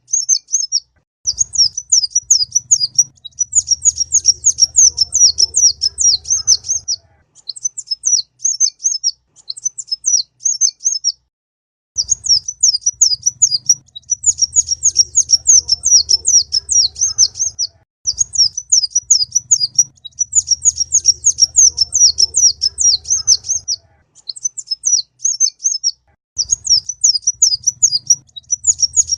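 Kolibri ninja (a sunbird) singing: fast, high-pitched chittering phrases of many quick notes, each phrase lasting a couple of seconds to about six, broken by short pauses. A faint low hum sits under the longer phrases.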